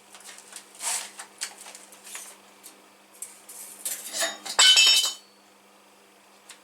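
Pieces of metal clinking and knocking together as they are handled, with a louder rattling clatter about four and a half seconds in that rings briefly.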